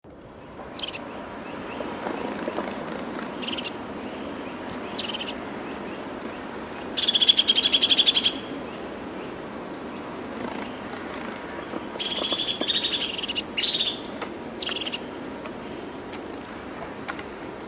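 Wild birds calling: short high chirps scattered through, with two longer rapid buzzy trills about seven and twelve seconds in, over steady background noise.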